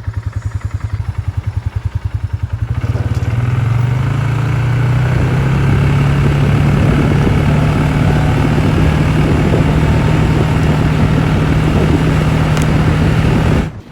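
Quad bike engine idling with a slow, even putter, then picking up speed about three seconds in and running steadily as the bike is ridden. The sound cuts off suddenly near the end.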